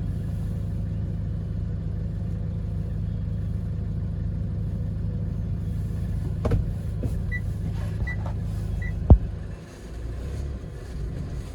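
Hyundai Porter 2 truck's engine idling steadily in the cab, with a click, three short high beeps, then a sharp knock about nine seconds in, after which the engine's hum drops lower.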